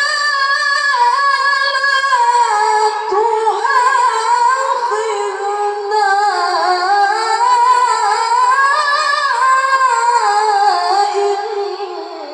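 A young reciter's voice in melodic Quran recitation (tilawah), holding one long ornamented phrase whose pitch winds up and down, easing off near the end.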